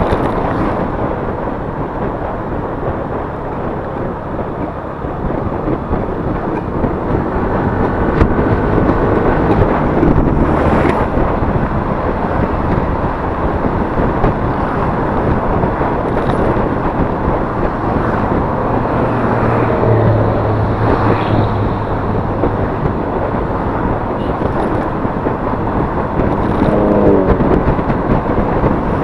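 Yamaha Mio S 125 cc scooter being ridden: its engine runs under steady wind noise on the chest-mounted camera's microphone.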